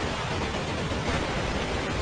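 Steady, even rushing noise of strong storm wind blowing on the microphone, with no distinct events.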